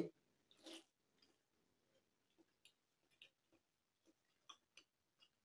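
Faint, irregular wet mouth clicks and soft chewing from someone eating a boiled egg, very quiet overall.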